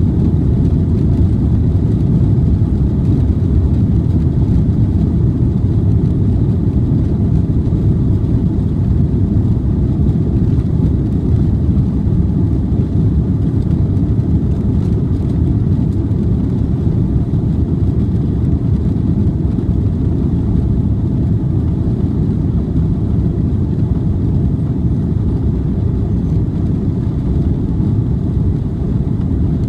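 Steady, loud low rumble inside the cabin of an Airbus A330 during takeoff, its jet engines at high thrust together with airflow noise, holding even throughout.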